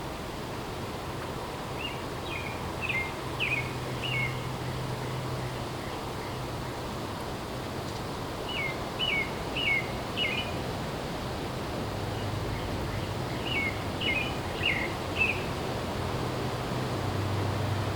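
A songbird singing three short phrases, each a quick run of four or five descending chirps, several seconds apart. Under it runs a steady background hiss with a low hum.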